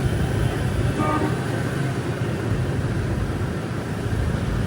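Steady street traffic noise with a low rumble of passing vehicles, and a short horn toot about a second in.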